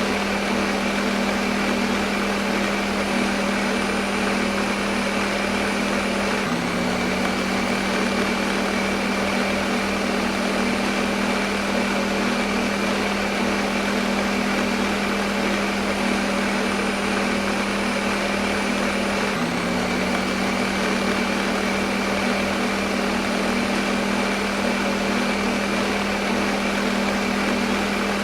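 Electric kitchen blender motor running continuously at constant speed: a steady whir over a strong low hum, which dips briefly in pitch twice and recovers.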